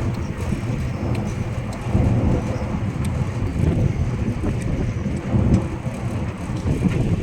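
Electric tourist train running, a loud, uneven low rumble with wind buffeting the microphone and a few faint clicks.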